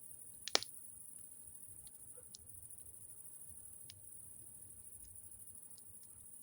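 Campfire crackling: a few sharp pops and ticks, with one loud double snap about half a second in, over a steady high hiss.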